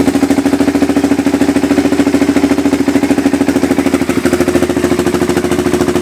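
Yamaha New Vixion single-cylinder four-stroke engine idling through an aftermarket exhaust: a reworked Suzuki Satria FU header pipe and a Nob1 silencer packed with glass wool. The exhaust note is steady and evenly pulsing, with a slight change in tone about four seconds in.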